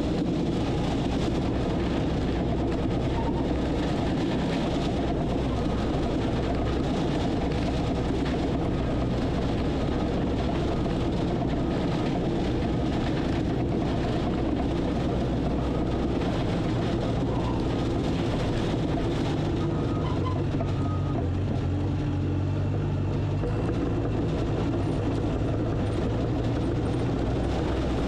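Diesel engine of heavy earthmoving equipment running steadily at work, its engine note changing about two-thirds of the way through.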